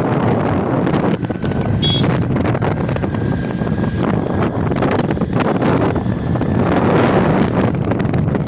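Loud, steady rumble of a moving vehicle with wind buffeting the microphone, and a couple of short high chirps.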